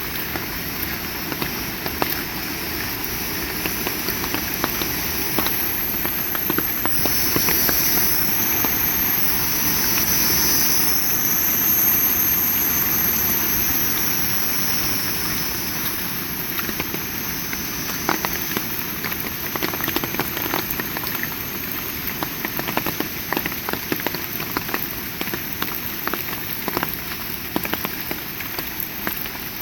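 Heavy rain pouring steadily, with a louder rushing swell between about 6 and 14 seconds in and scattered sharp drip taps through the second half.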